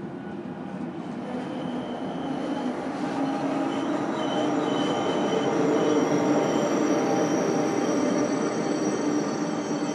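ICE 1 high-speed train running into a station, its rear power car passing close by. A dense rumble builds to a peak about six seconds in, with thin high-pitched whines coming and going over it.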